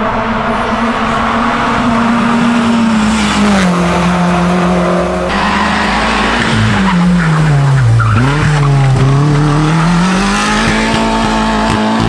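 Rally car engine at high revs with tyre squeal. The revs drop steeply about eight seconds in as the car slows for a corner, then climb again as it accelerates away.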